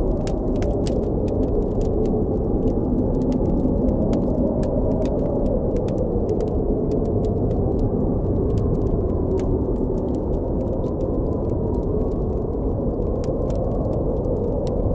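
Blizzard wind blowing steadily with a low rumble and a howl that slowly wavers in pitch, over a campfire crackling with many small sharp pops throughout.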